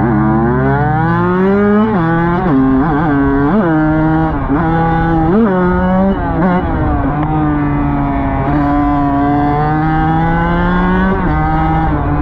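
Dirt bike engine revving hard and shifting up. The pitch climbs and falls sharply about five times in the first six seconds, then holds at a steadier speed before dropping off once more near the end.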